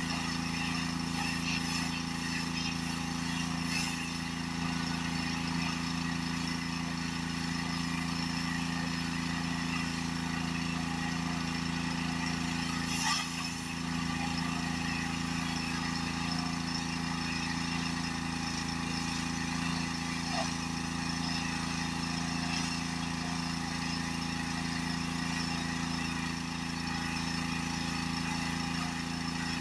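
Pressure washer running steadily: an even engine drone with the hiss of the high-pressure spray over it.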